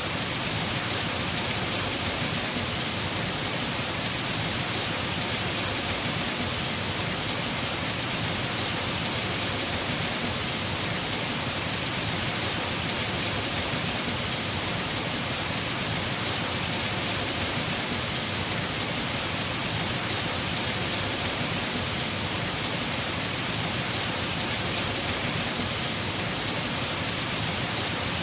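Heavy rain falling steadily on a house roof: a dense, even hiss that does not change.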